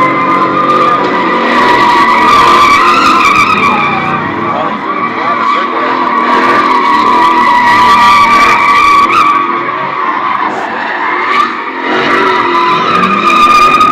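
Tyres squealing continuously in a long burnout, a steady high screech that wavers slightly in pitch and eases briefly about ten seconds in before picking back up.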